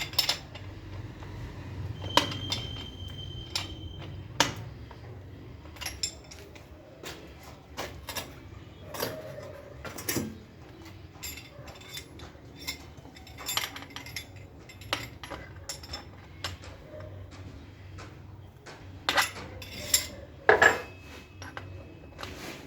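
Metal tools and bicycle parts clinking and knocking in irregular handling, with a few brief metallic rings and a louder cluster of knocks near the end.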